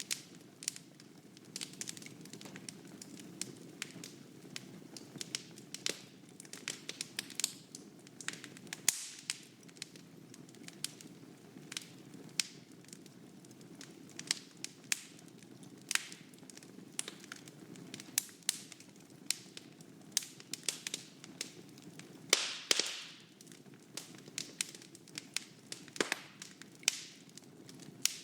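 Wood fire burning in a fireplace: a steady low hiss with frequent irregular crackles and sharp pops, a burst of louder pops about two thirds of the way through.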